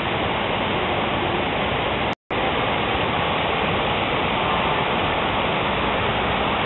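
Steady rush of a waterfall, cut by a brief dropout a little over two seconds in.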